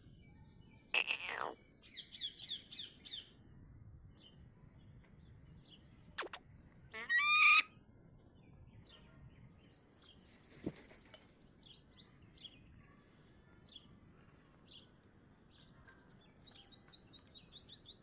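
Birds calling: loud, sharp calls about a second in and again around six to seven and a half seconds, between runs of quick, high, repeated chirps.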